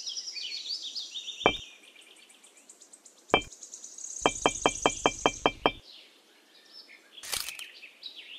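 Miniature clay bricks clicking as they are set down and tapped into a row: three single sharp clicks a second or two apart, then a quick run of about eight. Birds chirp in the background.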